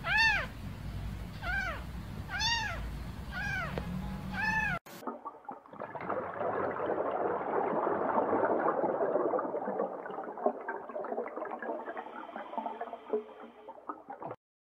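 A kitten meowing, about five high calls that rise and fall in pitch, roughly one a second. It cuts off suddenly and gives way to about nine seconds of dense crackling hiss.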